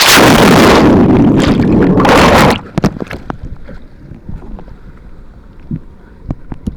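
A loud rush of splashing water close on the microphone for about two and a half seconds, cutting off suddenly. After it comes a lower wash of water noise with scattered knocks.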